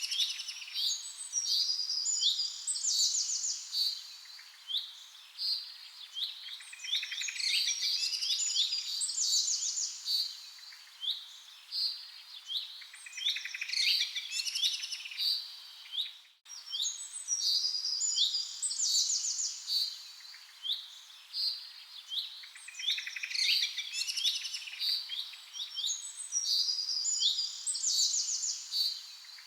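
Songbirds chirping, with short rising calls and quick trills that come in clusters every few seconds. The sound drops out for a moment about sixteen seconds in, then the same kind of birdsong picks up again.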